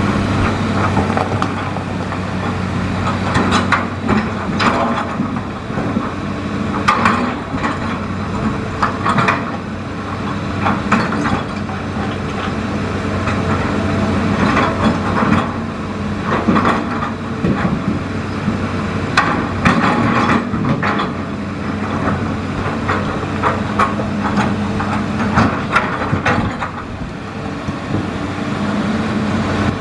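Hitachi Zaxis excavator's diesel engine running steadily, with irregular knocks and clatters throughout.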